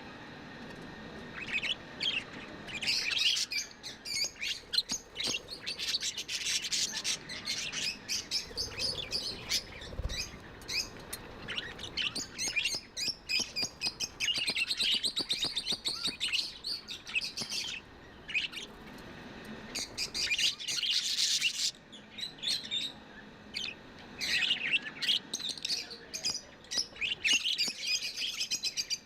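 Several budgerigars chirping in a rapid, continuous stream of short high chirps. There is one brief harsher burst about two-thirds of the way through.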